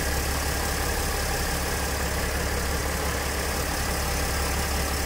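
Mercedes ML 350 CDI's V6 diesel engine idling steadily.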